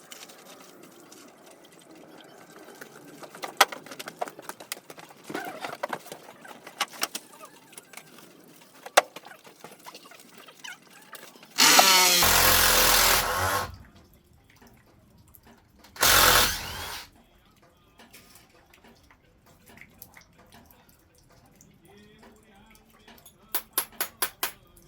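A power tool runs in two short bursts, the first about two seconds long and the second about one, among scattered knocks and clatter of wood and tools. A quick run of clicks comes near the end.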